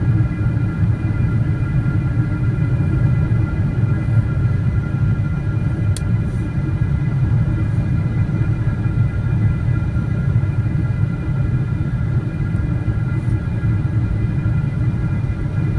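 Steady cabin noise of a Boeing 777-300ER, its GE90 engines giving a deep, even rumble with a few faint steady whining tones above it. A faint click about six seconds in.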